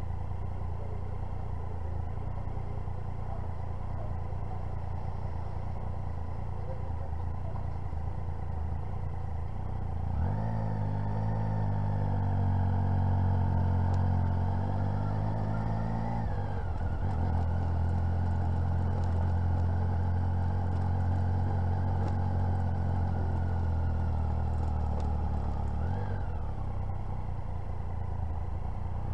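Motorcycle engine idling, then pulling away about a third of the way in with its note rising. There is a brief drop in the note a few seconds later, then it runs steadily at low speed, with a short rev and settle near the end.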